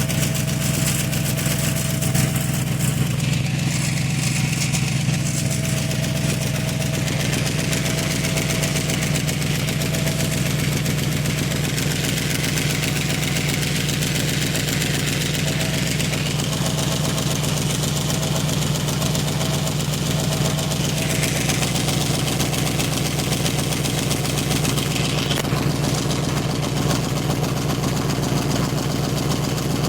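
A 1995 Chevrolet Caprice's LT1 V8 idling steadily, its exhaust leaking badly at two spots.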